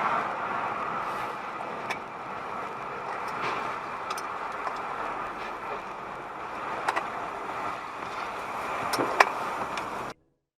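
Steady road and engine noise of a car driving, with a few short sharp clicks or knocks, the loudest about nine seconds in. The sound cuts off suddenly near the end.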